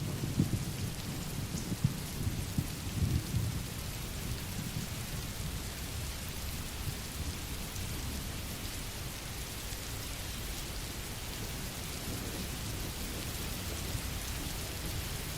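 Steady rain falling, with a low rolling rumble of thunder in the first few seconds that dies away into an even rain hiss.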